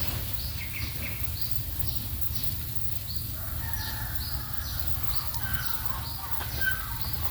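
Small birds chirping: a string of short, high, falling chirps, two or three a second, with a few longer, lower calls in the middle, over a steady low rumble.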